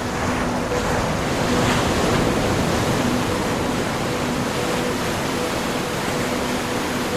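Ocean surf: waves washing in a steady rush that swells about two seconds in and then settles.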